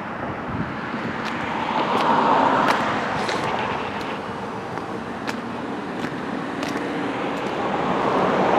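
Road traffic: cars passing on a nearby road, their tyre and engine noise swelling up and fading about two seconds in and again near the end.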